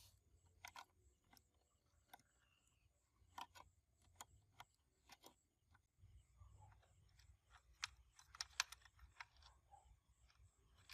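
Faint, scattered clicks and light taps of small parts and tools being handled during bench work on an amplifier, with a quick cluster of clicks near the end, over a faint low hum.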